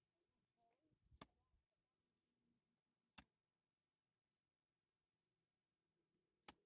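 Near silence, broken by three faint, sharp knocks spaced a few seconds apart.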